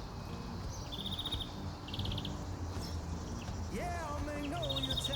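Crickets chirping in short pulsed trills, repeating about once a second. A brief voice-like sound comes near the end.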